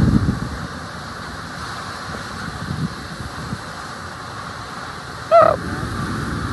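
Wind buffeting the microphone in uneven low gusts over a steady rushing hiss. About five seconds in, a brief pitched call, the loudest sound, rises and falls once.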